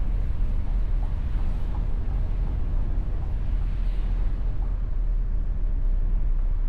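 Steady low rumble of a Mustang convertible driving along, with wind buffeting the microphone and road noise mixed in.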